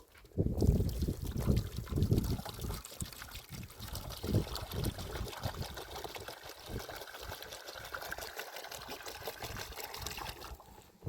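Water pouring and trickling, splashing heavily at first, then running on steadily until it stops suddenly near the end.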